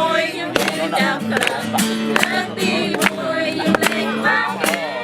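Acoustic guitar strummed while people sing along in Khmer.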